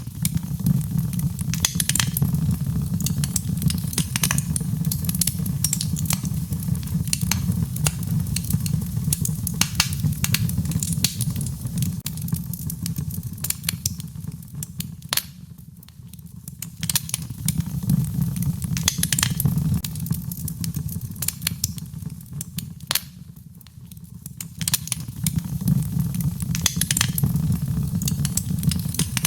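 Fireplace fire crackling, with frequent sharp pops and snaps over a low rumble of the flames that fades away twice and swells back.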